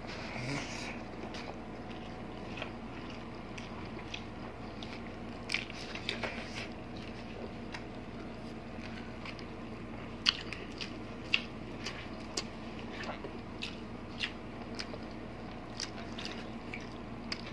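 Close-up chewing and mouth sounds of people eating braised pork hock (pata tim) and rice by hand: soft wet chewing with scattered short, sharp smacks and clicks.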